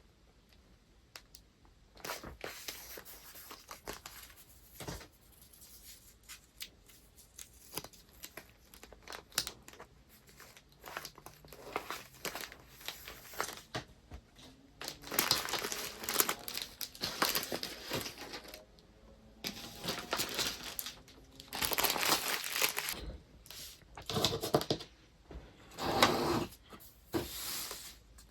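Paper rustling and crinkling in irregular bursts as items are wrapped and packed by hand, with scattered sharp clicks. It starts a couple of seconds in and grows louder and busier from about halfway.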